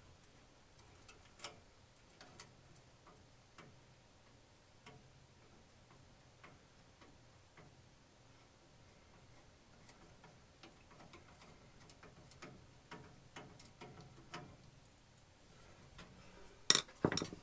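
Faint, scattered clicks and ticks of small metal parts and a hand tool being handled while the igniter's mounting screw is fastened, with a louder cluster of sharp knocks near the end.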